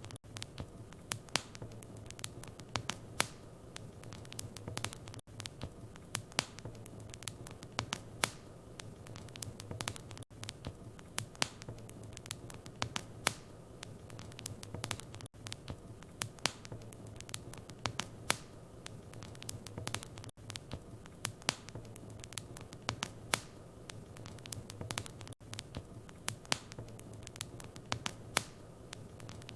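Wood fire crackling in a fireplace: irregular sharp pops and snaps over a steady low hum, with a brief dip in sound about every five seconds.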